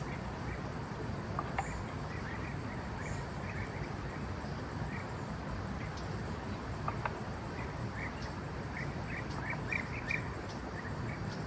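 Birds chirping in short, repeated calls over a steady background hiss, the chirps coming thicker near the end, with a few faint clicks.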